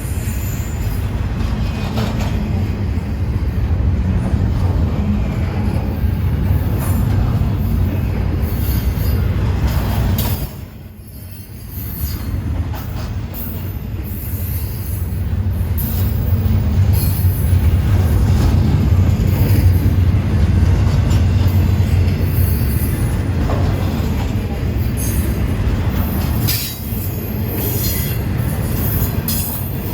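A train's cars rolling past at close range: a heavy, steady rumble of wheels on rail with repeated sharp clicks and clacks. It briefly drops away about a third of the way in, then builds back up.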